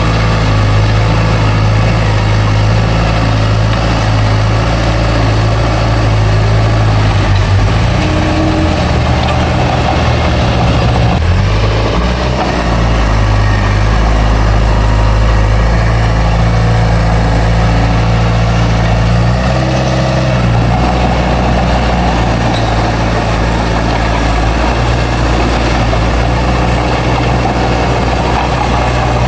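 Bulldozer's heavy diesel engine running steadily as it works, its pitch shifting a few times as the load changes.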